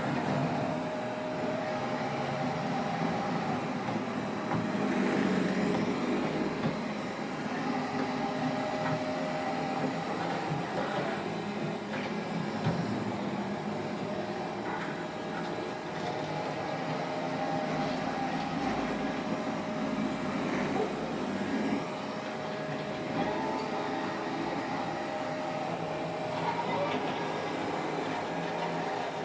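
Roborock robot vacuum cleaner running steadily while it cleans, a continuous machine sound with a constant tone.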